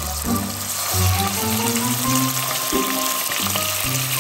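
A marinated pork chop sizzling steadily in hot avocado oil in a frying pan, with background music playing over it.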